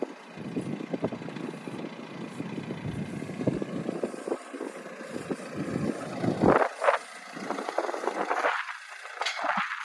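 A vehicle running, with clattering and rattling over a steady rumble and a couple of louder knocks about six and a half and seven seconds in.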